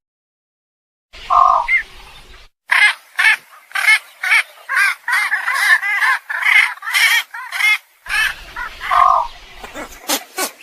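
Egret calls: after a moment of dead silence comes one call, then a rapid run of repeated calls at about two a second, another single call, and quicker sharp calls near the end.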